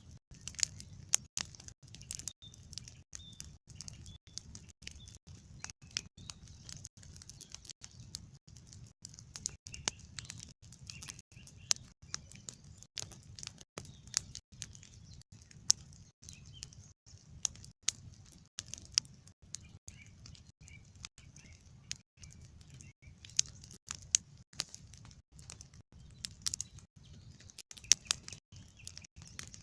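Campfire crackling, with irregular sharp pops and snaps over a low steady rumble. Faint bird chirps come and go behind it.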